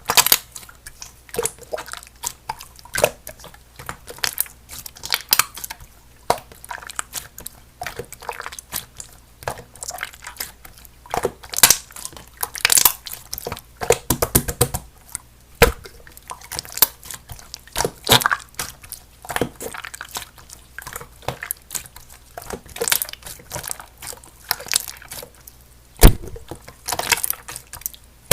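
Slime being squeezed and poked by hand, making irregular wet clicks, pops and crackles, densest near the middle.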